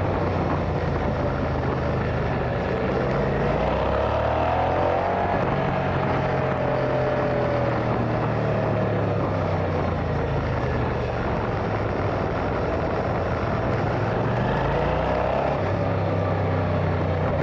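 Motorcycle engine running while riding, its pitch rising and falling with the throttle, under a steady rushing noise.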